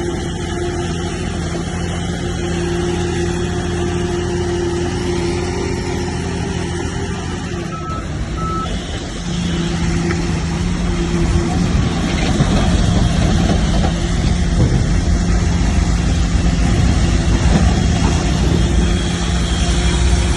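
Heavy diesel engine of earthmoving machinery running steadily, with a dense low rumble that grows louder and heavier about nine seconds in as it works under load. Two short beeps sound just before that.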